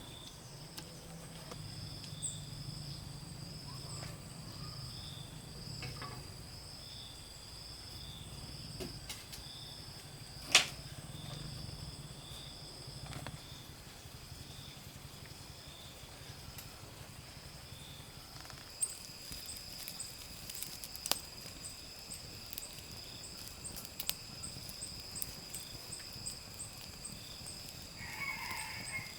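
Insects chirping steadily in high, pulsing trills, over a low hum that fades out after about eighteen seconds. A single sharp knock sounds about ten seconds in, with faint scattered clicks later.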